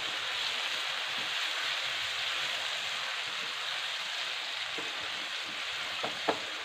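Onions and tomatoes sizzling steadily in hot oil in a non-stick kadai as they are stirred with a spatula, with two light knocks about six seconds in.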